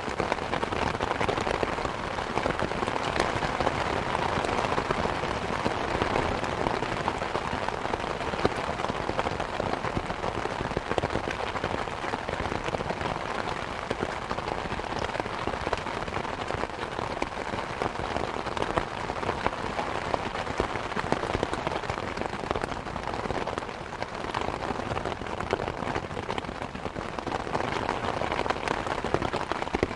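Steady rain pattering, mixed with the crackle and pops of a wood fire in a fireplace, as a continuous even bed of sound.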